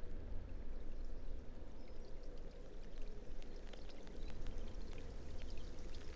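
A stream of running water trickling and splashing, with small drips and splashes growing busier after about two seconds, over a low rumble.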